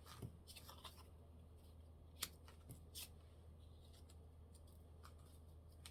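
Near silence with faint handling of paper and craft materials on a desk: a few light clicks and rustles, two of them a little sharper about two and three seconds in.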